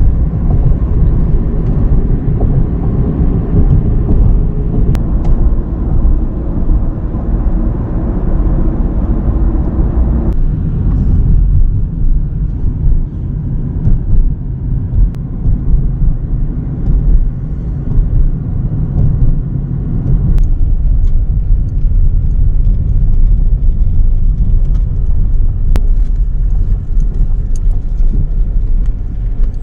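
A car on the road: a loud, steady low rumble of road and engine noise. Its higher part drops away about ten seconds in.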